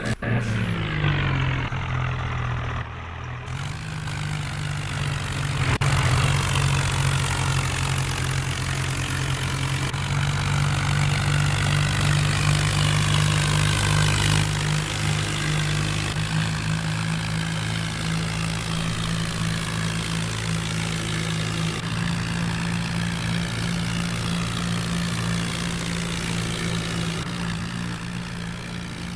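Heavy diesel engine running steadily. Its revs drop in the first second and pick up again about three and a half seconds in.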